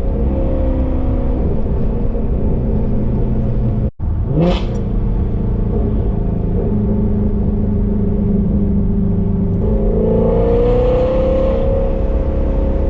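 2017 Ford Mustang Shelby GT350's 5.2-litre flat-plane-crank V8 breathing through Kooks long-tube headers and a catted exhaust, cruising at steady low revs. It cuts out briefly about four seconds in, and the note rises a little near the end as the engine picks up revs.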